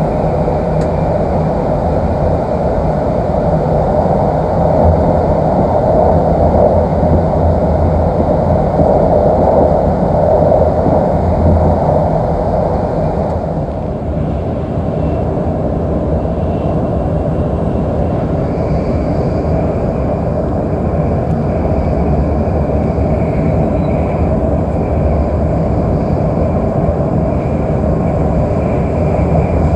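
Steady running noise of a Shinkansen bullet train at speed, heard inside the passenger car: a constant rumble and rush from the wheels and the air. About halfway through, the tone shifts slightly, and a faint high whine is heard in the later part.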